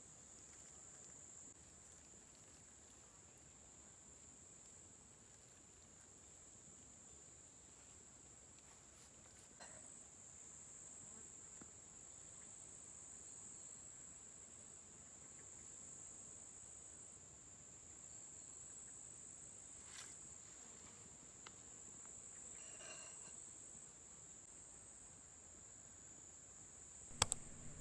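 Faint, steady high-pitched insect chirring, with a few soft clicks scattered through and a sharper knock near the end.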